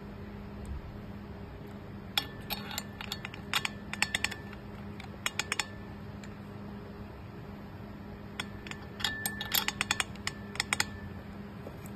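Cordless grinder being handled: two bursts of rapid small clicks and clinks, a few seconds apart, over a steady low hum.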